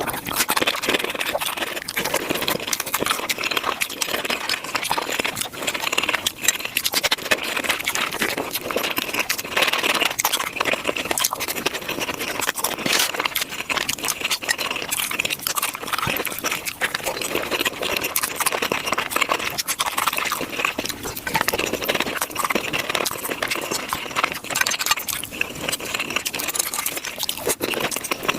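Close-miked chewing and crunching of tacos, sped up five times, so the bites and mouth sounds blur into a dense, rapid crackle of clicks.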